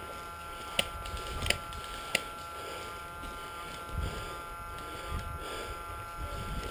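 Three sharp clicks, evenly spaced about two-thirds of a second apart, over a steady electronic hum and low handling or wind rumble.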